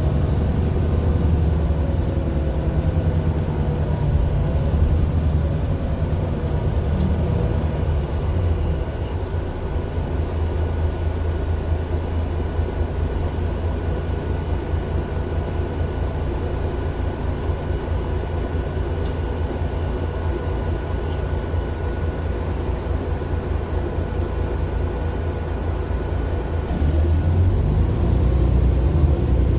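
Mercedes-Benz Citaro LE city bus with its Daimler OM 457 hLA six-cylinder diesel and ZF automatic gearbox, running with a steady low rumble. A faint tone falls slowly over the first several seconds, and the engine grows louder about 27 seconds in.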